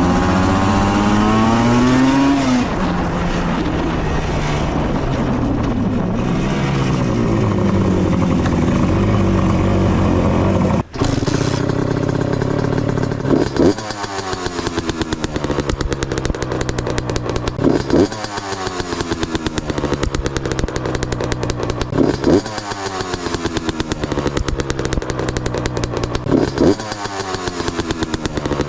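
Motorcycle engine revving. It climbs in pitch over the first couple of seconds and runs at varying speed. From about halfway it is blipped about every four seconds, and each blip falls back to a lower, steady run.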